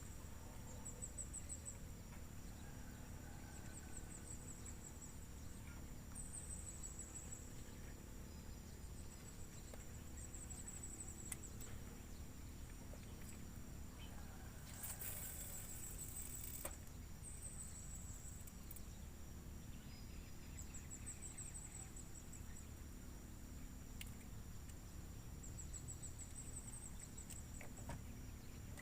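Insects droning steadily at a high pitch, with short pulsed chirp trains every couple of seconds. A brief hiss comes about halfway through, over a low rumbling background.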